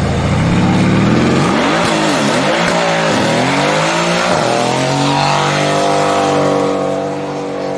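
A performance car's engine revving loudly: its pitch rises and falls in a few quick revs, then climbs and is held at high revs before easing off near the end.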